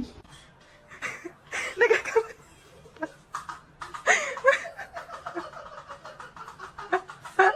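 A person laughing in short bursts, once about a second in and again about four seconds in.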